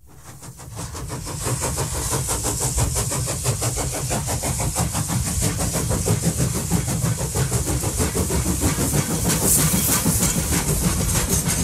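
A train running on the rails, heard from on board: a steady low rumble with fast, regular clicking and a hiss over it. It fades in at the start.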